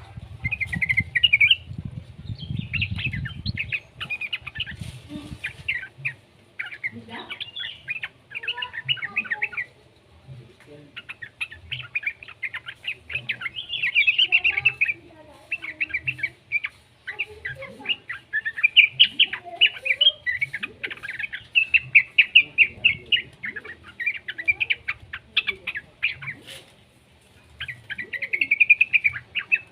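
Young yellow-vented bulbul (trucukan) calling: bursts of quick, bubbly chattering notes, repeated again and again with short pauses. A low rumble sits under the calls for the first few seconds.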